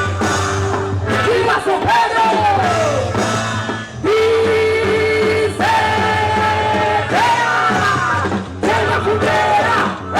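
Loud band music with a singing voice: long held notes, some sliding down at their ends, over a steady drumbeat.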